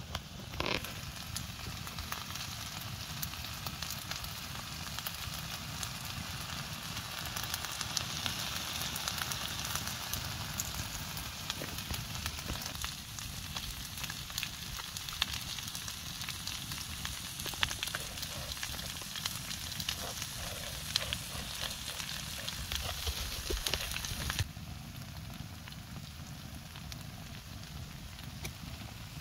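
Food frying in a pan, a steady sizzle with fine crackles running through it; it drops off suddenly near the end.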